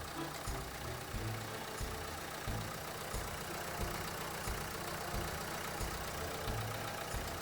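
Renault Kangoo 1.5 dCi diesel engine idling, with low pulses about twice a second and faint ticking over it. The metallic chirping noise comes from a worn alternator overrunning-clutch pulley that has excessive play and grabs.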